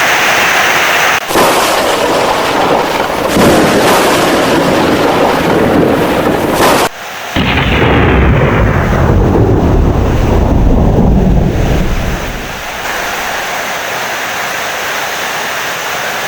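Heavy rain with thunder: a dense steady rain hiss, broken by two abrupt cuts, then a long low rumble of thunder from about seven seconds in that dies away by about twelve seconds, leaving steady rain.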